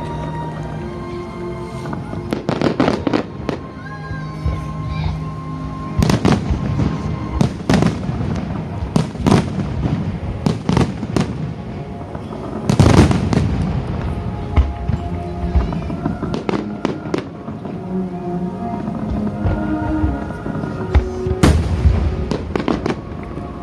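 Wide starmine fireworks display: volleys of shells bursting in quick succession over accompanying music, with the densest, loudest barrage about halfway through and another burst near the end.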